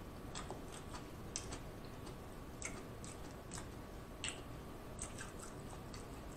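Quiet eating sounds: chewing seafood, with sparse, irregular wet clicks of the mouth and of fingers picking through the saucy seafood boil.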